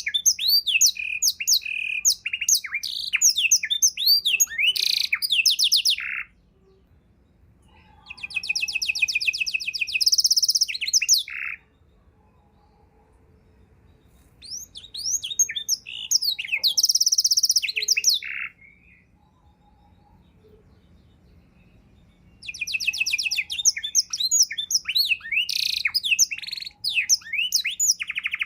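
Domestic canary singing: long phrases of rapid trills and quick sweeping notes, broken three times by pauses of a few seconds.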